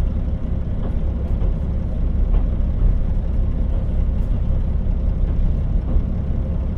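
KiHa 40 diesel railcar running steadily along the line: a constant low rumble of the engine and wheels on the rails.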